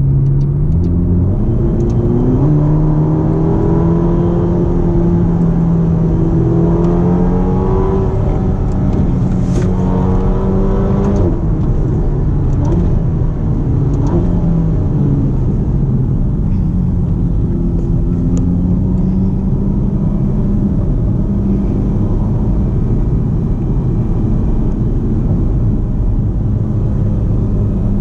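Ferrari GTC4Lusso T's twin-turbocharged 3.9-litre V8 heard from inside the cabin while driving. Its note climbs several times in the first half as the car accelerates, then settles into a steady cruising drone with road rumble.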